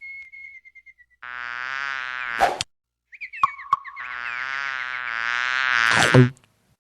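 Frogs calling: two long buzzing calls, the second longer and growing louder towards its end, with a few short squeaky chirps between them.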